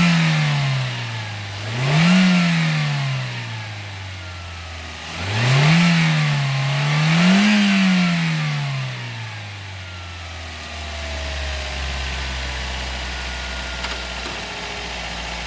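Toyota Vios four-cylinder petrol engine revved in short throttle blips: it is coming down from one rev at the start, rises and falls three more times, then settles to a steady fast idle about ten seconds in. It revs cleanly, without the choking stumble it had before its carbon-fouled servo was cleaned.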